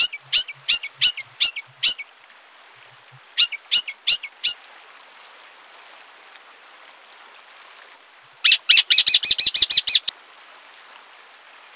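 Songbird calls: sharp, high-pitched call notes repeated about three times a second, a short group of the same notes a few seconds in, then a fast rattling string of notes lasting about a second and a half near the end.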